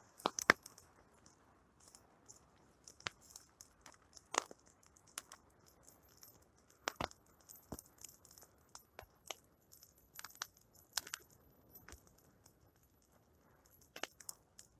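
Plum-log bonfire crackling: irregular sharp pops and snaps of burning wood, a few each second, over a faint hiss.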